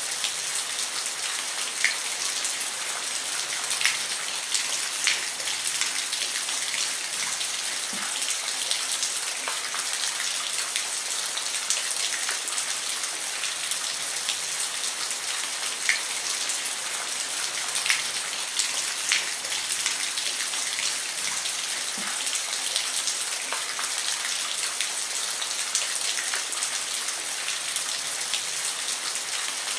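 Steady rain falling on a roof: a dense, even patter with scattered louder individual drops striking.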